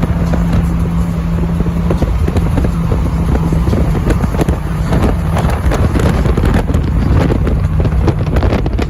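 A car driving: engine drone with road and wind noise, the drone holding a steady pitch for about two seconds and then wavering, with wind buffeting the microphone.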